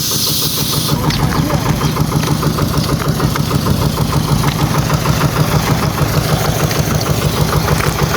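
A high hiss that stops about a second in, then an engine running at idle with an even, rapid pulse.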